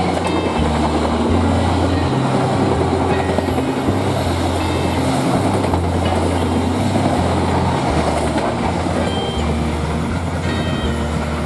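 Passenger train passing close by, its carriages' wheels on the rails making a loud, steady rumble.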